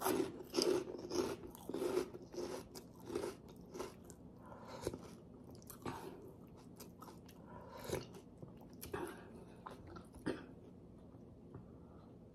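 Crunchy chewing of crispy fried pork chicharon: a quick run of crisp crunches for the first few seconds, then slower single crunches that thin out toward the end.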